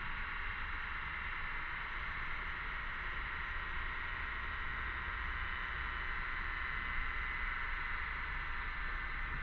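A chorus of cicadas singing steadily, a continuous high-pitched drone that neither stops nor changes.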